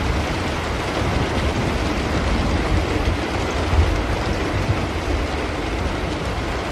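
Steady rain under a low, rolling rumble of thunder.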